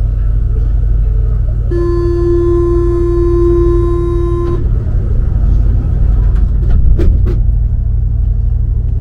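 Low steady rumble of a rubber-tyred MP 05 Paris Métro train, with a steady buzzing warning tone about two seconds in that lasts some three seconds, typical of the door-closing signal, followed by a few sharp clicks and knocks.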